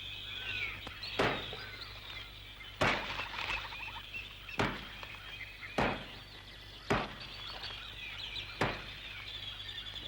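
Axe chopping into a wooden log: six sharp blows, roughly one every one and a half seconds. Birds chirp and sing throughout.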